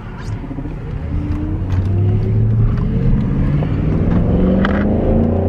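Chrysler 300C's 5.7-litre Hemi V8 on its stock exhaust, heard from inside the cabin as the car accelerates. The engine note climbs steadily in pitch and grows louder over the first two seconds, then keeps pulling.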